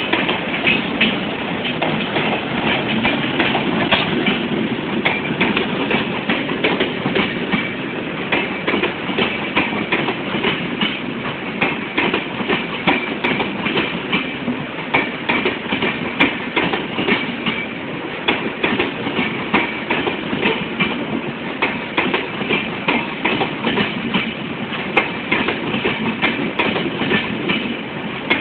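Passenger train running at speed, heard from aboard: the wheels clatter steadily over the rail joints with many quick clicks over a continuous rumble.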